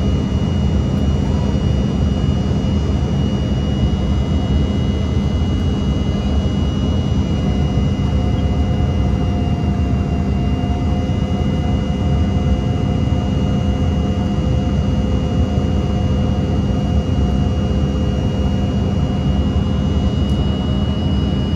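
Embraer 170's General Electric CF34 turbofan engines running steadily: a constant heavy rumble with a high, even fan whine on top that sags slightly about halfway through.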